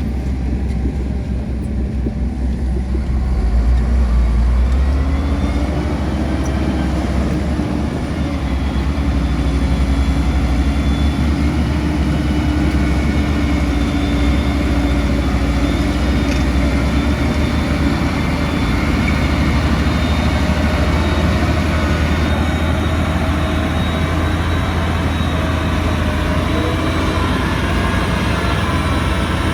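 Heavy diesel earthmoving machinery running steadily under load, its engine rising in pitch about five seconds in and then holding.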